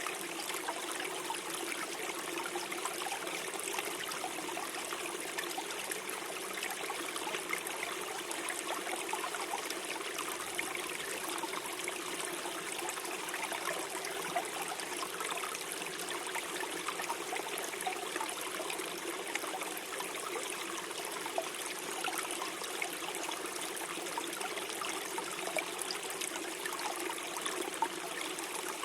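Small stream flowing and gurgling over stones: a steady, even rush of water with fine splashing and trickling throughout.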